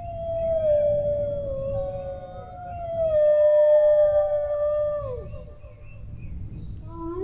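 Dogs howling: long drawn-out howls, two voices overlapping, the second sliding down and fading about five seconds in, then a fresh howl starting near the end. A steady low rumble runs underneath.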